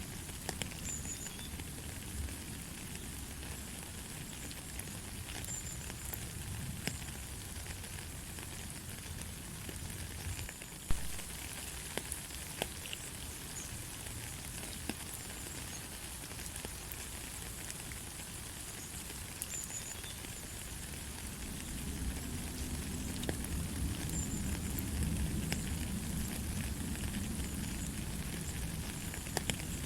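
Steady light rain, an even hiss with scattered sharp drop ticks. A low rumble swells in during the last third, and a few faint high chirps come now and then.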